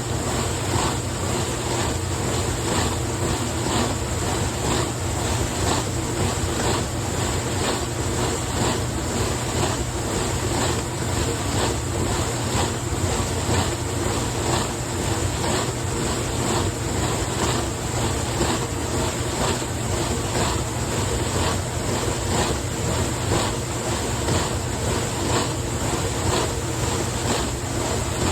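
1974 Hobart-built KitchenAid Superba KSD-57A dishwasher running its rinse cycle: a steady motor hum under a constant wash of water noise, with a faint regular pulsing about twice a second.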